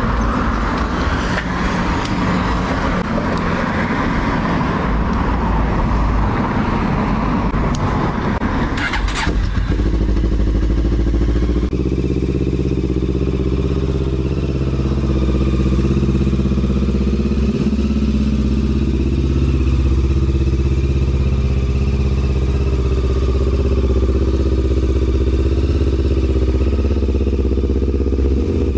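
Older Honda CB500 parallel-twin engine running through an aftermarket Coyote exhaust. It is rough and noisy for about the first ten seconds, then settles into a steady idle.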